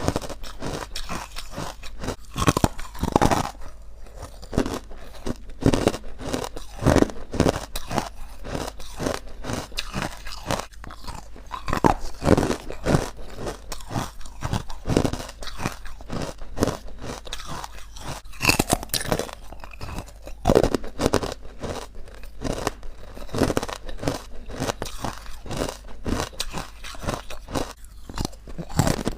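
Close-up chewing of crunchy, chalky ice bites: dense, irregular crunching as the ice is bitten and ground between the teeth.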